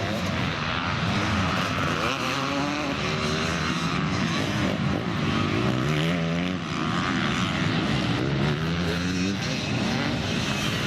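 Motocross bike engines revving hard. The pitch climbs and drops again and again as the riders work the throttle and shift, with more than one bike heard at once.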